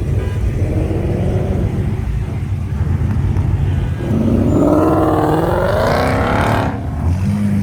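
Loud car engines and exhausts running. From about four seconds in, one engine revs up louder with a wavering rising pitch, then drops off sharply near the end.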